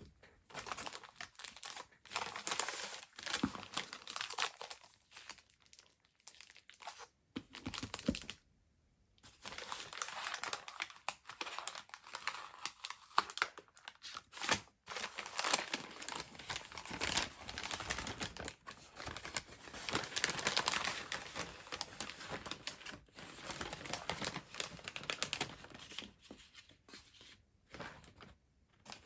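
Packaging crinkling and rustling as it is handled and unwrapped, in irregular crackly bursts, with a short pause about eight seconds in.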